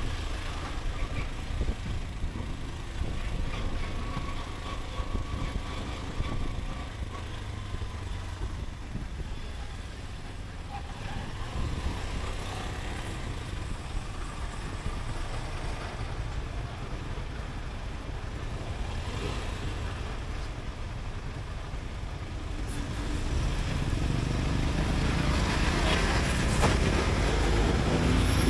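Riding sound from a motorcycle in city traffic at night: a steady low engine rumble mixed with road and wind noise. It grows louder near the end.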